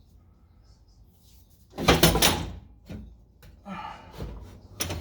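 Exhaust pipe being wrestled under the car, knocking and scraping against the underbody: a loud clatter about two seconds in, then several lighter knocks.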